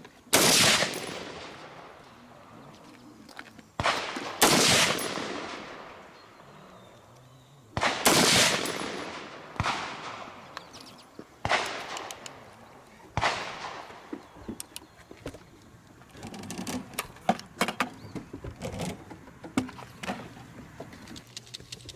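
Single gunshots from a handgun-class firearm fired at a slow, irregular pace: about seven loud shots in the first two-thirds, each with a fading echo, two of them about half a second apart. Fainter, shorter pops follow near the end.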